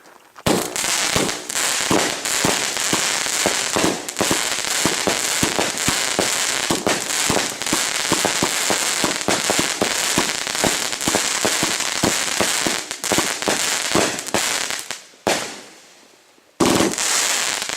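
A 500-gram consumer fireworks cake (Red River Rage) firing: a dense, rapid string of shots and crackles for about fifteen seconds, a brief pause, then one more short burst near the end.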